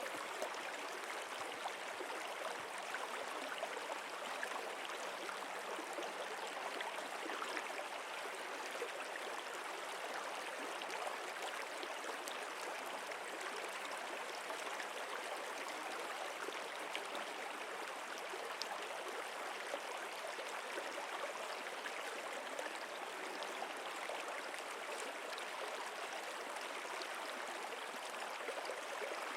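Stream water running and babbling steadily, a constant rush with small fine splashes.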